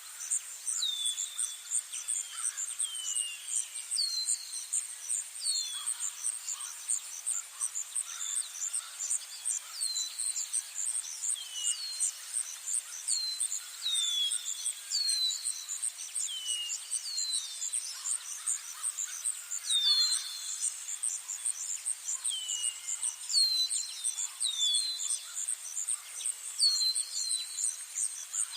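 Birds calling in short, falling whistles, about one a second and sometimes overlapping, over an insect's steady, fast-pulsing high trill.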